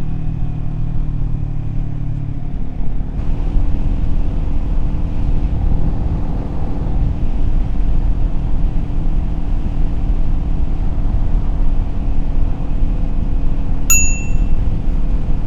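Kawasaki Z400's parallel-twin engine running steadily under way, with low road and wind rumble; the engine note changes about three seconds in. A short, high ding sounds once near the end.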